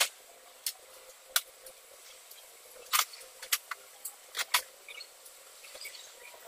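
Irregular sharp clicks and taps, about ten over a few seconds, with the loudest near the start and around the middle.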